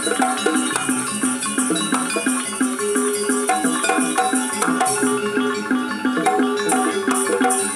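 Jaranan dance accompaniment music: Javanese percussion ensemble playing quick, evenly repeated pitched metal notes over a steady rhythm, with a constant shimmering rattle of small cymbals high above.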